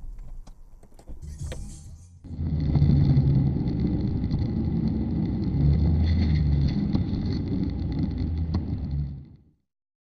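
Car engine and road noise of a moving car, a steady low rumble that starts abruptly about two seconds in and fades out shortly before the end.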